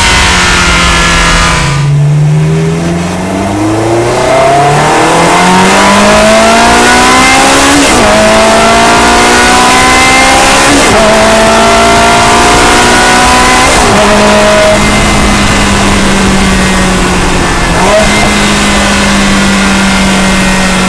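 Ferrari 360 Modena's V8 with an aftermarket sport exhaust, heard from a microphone in the engine bay, accelerating through the gears. After a short lift about two seconds in, the revs climb, with upshifts marked by brief dips in pitch about eight, eleven, fourteen and eighteen seconds in.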